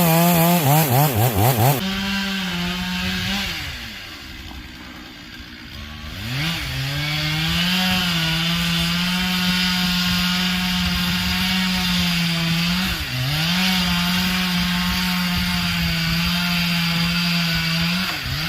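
Two-stroke chainsaw cutting into a hickory trunk at full throttle, the felling cut that brings the tree down. Its pitch wavers during the first two seconds, falls off and goes quiet for about two seconds, then climbs back and holds steady in the cut until near the end.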